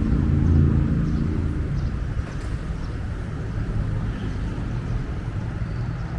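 A motor vehicle's engine passing close by, loudest about half a second in and fading over the next second or so, followed by steady low street-traffic rumble.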